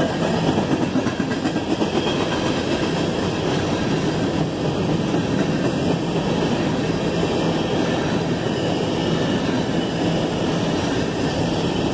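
CSX freight train's open hopper cars rolling past close by: a steady, even wheel-and-rail rumble.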